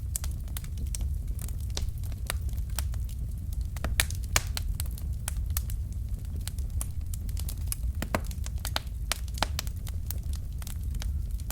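Wood fire in a fireplace crackling: irregular sharp pops and snaps of burning logs over a steady low rumble of the flames, with a couple of louder pops about four seconds in.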